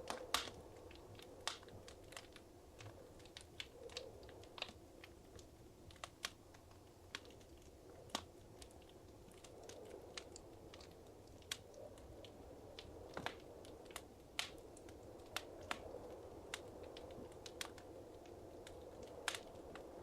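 Wood fire crackling in a fireplace: irregular sharp pops and snaps, a few louder ones, over a soft low rush of the flames.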